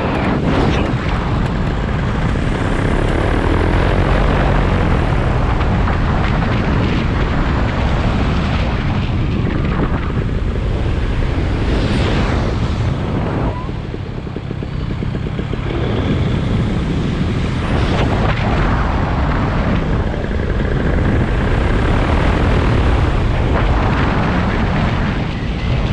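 Radio-controlled aircraft's propeller whirring steadily with rushing wind noise, swelling up and down briefly a few times.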